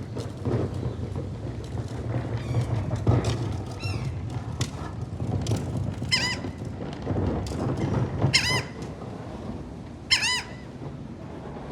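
Seagulls calling, with several squawks and three loud, drawn-out calls in the second half, over a steady low hum.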